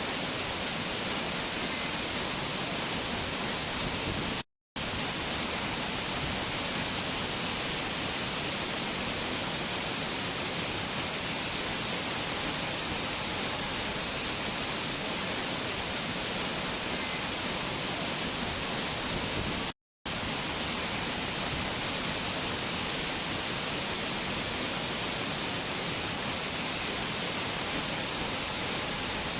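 Waterfall rushing, a steady, even hiss weighted toward the high end. The sound cuts out completely twice for a fraction of a second.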